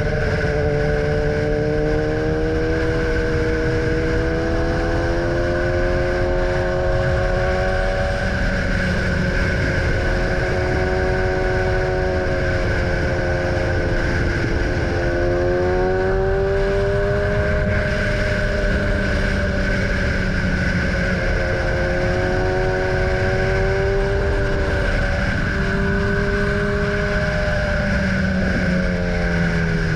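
BMW S1000R motorcycle's inline-four engine running at road speed, its pitch rising and falling as the throttle eases on and off, over a steady rush of noise.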